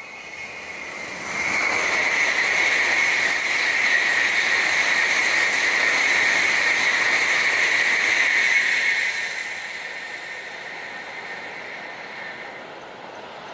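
Tokaido Shinkansen N700-series bullet train passing at speed. A loud rushing noise with a steady high hiss swells in about a second in, holds for about eight seconds, then fades.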